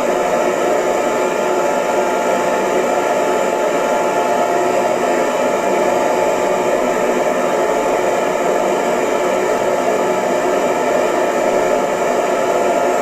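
Hair dryer running steadily: an even, continuous rush of air with a motor whir and faint steady tones underneath.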